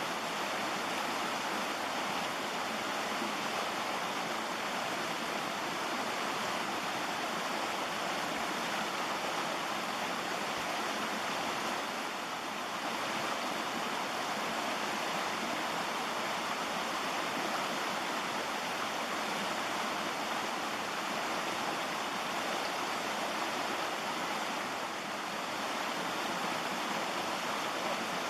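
Mountain creek rushing over rocks and small falls: a steady, even wash of flowing water.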